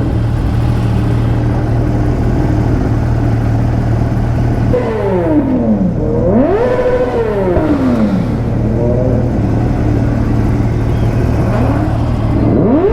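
Superbike engine running, with several rising and falling revs between about five and nine and a half seconds in.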